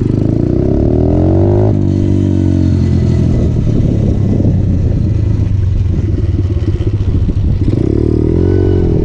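A 125cc motorcycle engine revving up, its pitch climbing, then dropping sharply at a gear change about two seconds in. It runs on steadily, then revs up and falls back again near the end, over a heavy low rumble.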